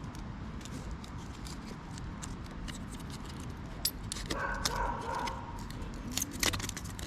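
A knife shaving slivers off a stick for kindling: a series of short, sharp scraping strokes. About four seconds in, a dog gives a brief high whine.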